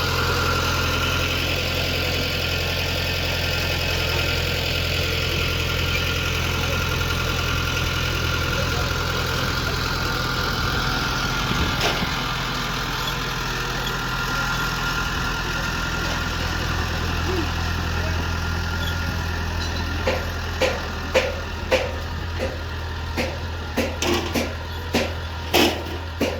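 Engine running steadily at idle, a low even hum, with a string of sharp knocks or taps in the last few seconds.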